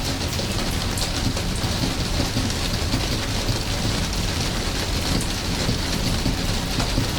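Steady rain falling, a dense even hiss with many individual drops ticking through it, over a constant low rumble.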